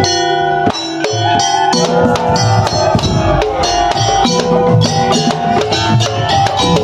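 Madurese tong-tong (ul-daul) percussion ensemble playing: clear struck, ringing notes at first, then about two seconds in the full band joins with repeated low drum beats under a wavering melody.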